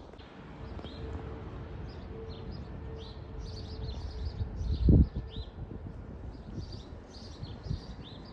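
Small birds chirping over and over, above a low, steady distant rumble from an airliner's jet engines on the runway. A brief gust of wind hits the microphone about five seconds in.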